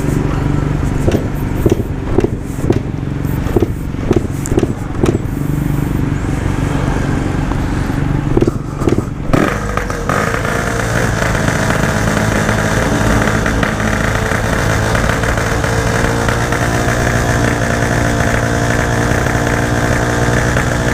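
Motorcycle engine running at a standstill, uneven with irregular pops about twice a second for the first half. About halfway through it settles into a steadier, fuller note.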